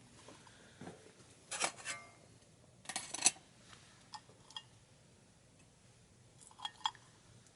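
Metal camping gear being handled: several separate clinks and clatters, the loudest about three seconds in, a few with a short metallic ring near the end.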